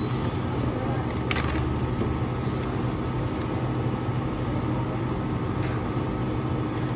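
Steady low mechanical hum with a few light clicks and knocks over it.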